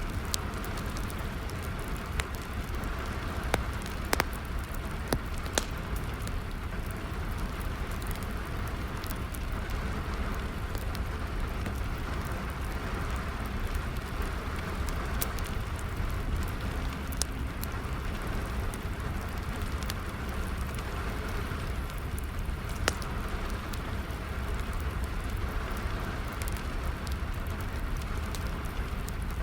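Steady rain falling, with a wood fire crackling: scattered sharp pops at irregular intervals over the even hiss of the rain.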